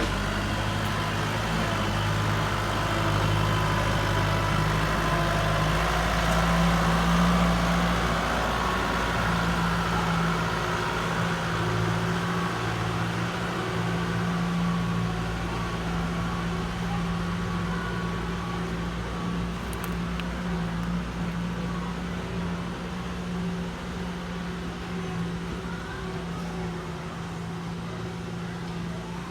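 Kubota tractor's diesel engine running steadily as it works the soil. It is loudest about a quarter of the way in and grows gradually quieter over the second half.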